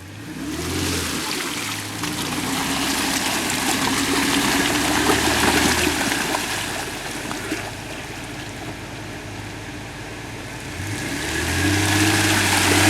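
4x4 SUV engine pulling under load through mud and water, with a steady wash of splashing over it. The revs rise at the start, ease off about halfway through and climb again near the end.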